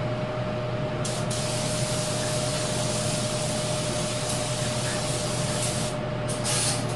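Spray hissing steadily for about five seconds as a hydraulic cylinder part is blasted clean, followed by a few short bursts near the end. A steady hum runs underneath.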